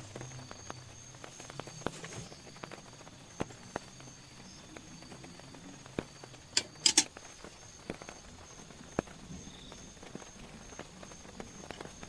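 Scattered light taps and clicks, with a short burst of louder clicks about seven seconds in, over a faint steady high-pitched trill.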